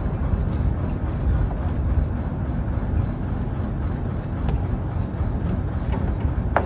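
Fishing trawler's engine running steadily as a low, even rumble, with a few faint knocks.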